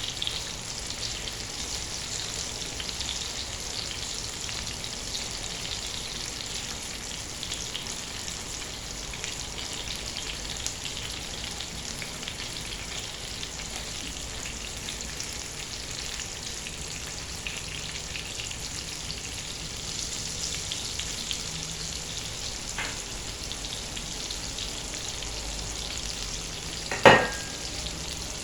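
Marinated chicken fillet frying in a pan, a steady sizzle with fine crackle. There is a single sharp knock near the end, with a fainter one a few seconds before it.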